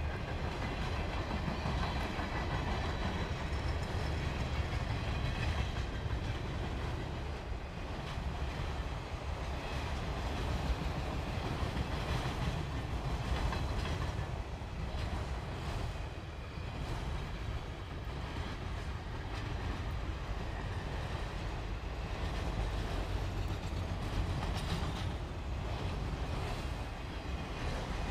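Freight cars of a passing train rolling by: a steady rumble of steel wheels on the rails with scattered clickety-clack over the rail joints.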